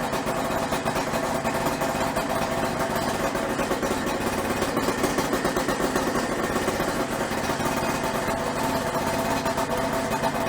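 Suzuki RG250Γ's two-stroke parallel twin idling steadily through a Sugaya F Power expansion chamber exhaust with a freshly overhauled silencer.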